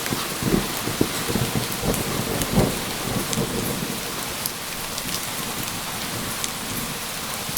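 Steady rain falling, with sharp ticks of individual drops. A low roll of thunder rumbles through the first few seconds and dies away.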